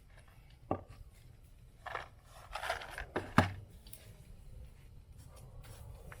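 Handling noise: a sharp knock, then a short scraping rustle, then a louder sharp knock.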